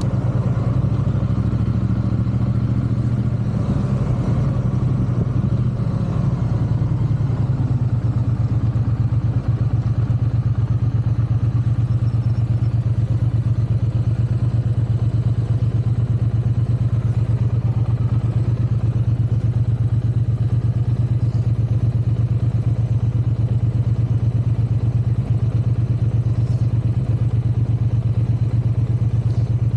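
Triumph parallel-twin motorcycle engine running, its note changing over the first several seconds and then settling to a steady idle from about seven seconds in.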